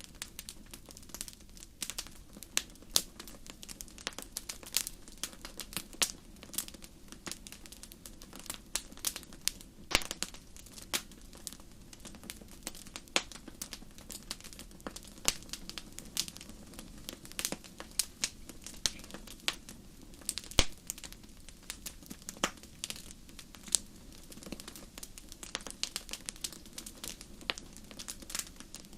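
Wood fire burning in a fireplace, crackling and popping: many irregular sharp snaps, some louder than others, over a low steady rumble of the flames.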